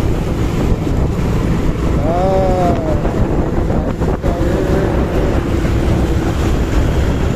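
Wind rushing over the microphone of a moving motorcycle, with engine and road noise underneath. A brief tone rises and falls about two seconds in.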